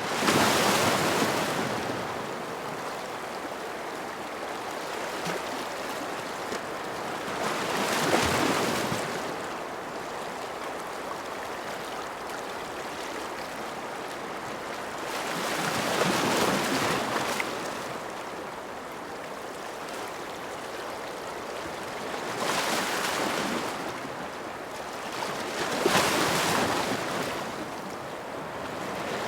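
Ocean waves breaking and washing on a shore, a steady hiss of surf that swells to a peak every several seconds, about five times.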